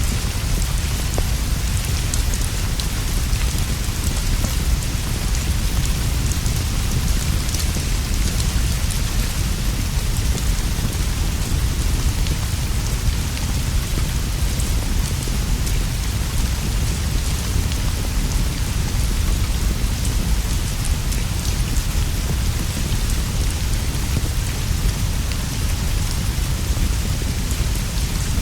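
Steady rain falling, with a continuous low rumble under it and a few faint ticks of drops.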